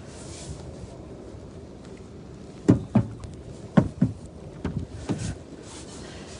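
A low steady rumble with a run of dull thumps in the middle, about six of them in three close pairs.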